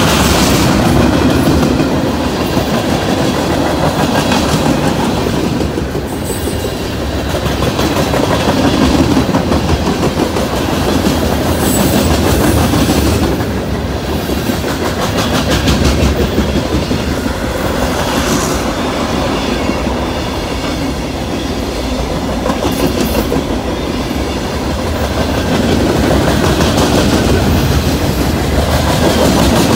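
Mixed freight train of tank cars, hoppers and boxcars rolling past close by: steady loud noise of steel wheels on the rails, with repeated clickety-clack as the wheels cross rail joints.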